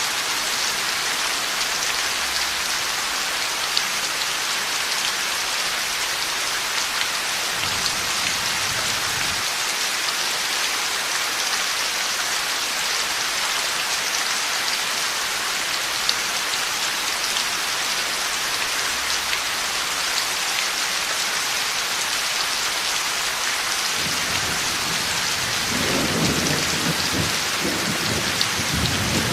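Heavy rain falling steadily in a thunderstorm. A short low rumble of thunder comes about eight seconds in, and a longer rolling rumble builds in the last five seconds.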